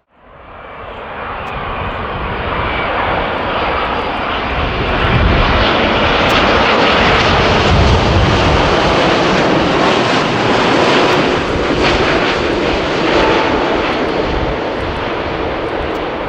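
Jet airliner's engines heard passing close by: a rush of engine noise that builds over the first few seconds, stays loudest through the middle, then slowly fades, with a faint whine at the start.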